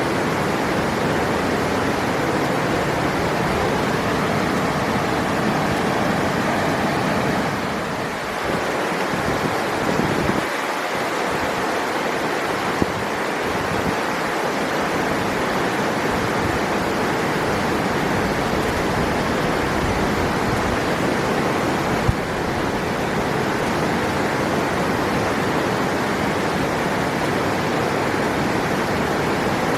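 River water rushing steadily, a continuous even wash of flowing water.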